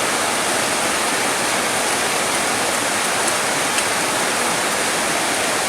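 Steady rain, an even hiss of falling water with no change in strength.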